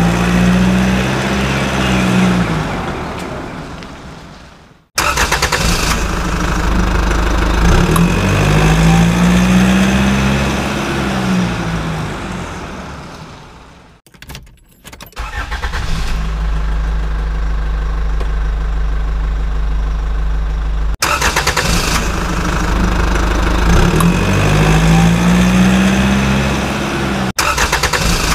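A vehicle engine starting and revving up, then settling and fading away, the same engine sound repeating three times. It cuts off abruptly several times, with a few seconds of steady idling in the middle.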